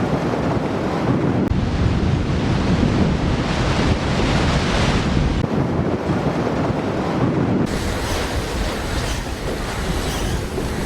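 Typhoon wind blowing hard across the microphone, with a dense rush of surf beneath it. The sound shifts abruptly about five and a half and about eight seconds in.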